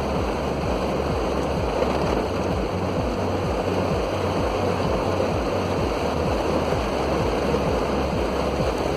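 Steady rush of heavy rain around a car, with music faintly underneath.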